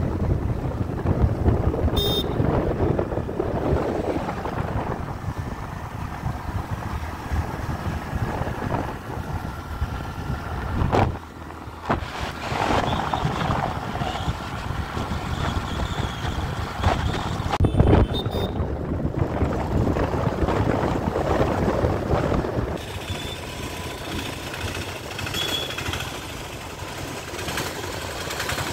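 Road noise of a moving vehicle: a steady rumble with wind buffeting the microphone. It drops away briefly about eleven seconds in.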